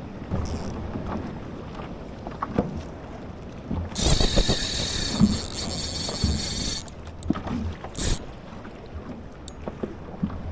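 Wind buffeting the microphone and water around a fishing kayak, with a loud hissing burst of about three seconds near the middle and a few short knocks after it.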